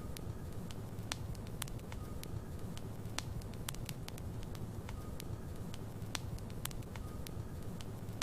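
Wood logs burning in a fireplace: frequent sharp crackles and pops over a steady low rumble of the flames.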